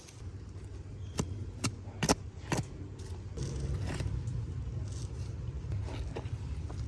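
Sharp clicks from a plastic keyboard being handled during cleaning, four in a row about half a second apart, over a steady low hum that gets louder about halfway in.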